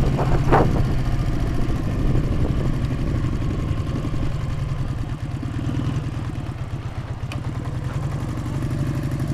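Motorcycle engine running steadily at low revs, with an even low-pitched pulsing.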